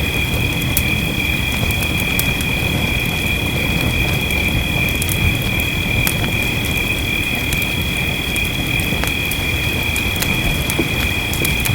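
Wood fire crackling with scattered sharp pops over a steady low rush of rain, with a constant high-pitched drone running beneath.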